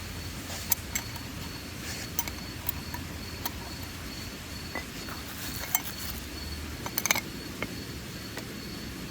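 A steady high insect trill, typical of crickets, with scattered light clicks and clinks, a small cluster of them about seven seconds in.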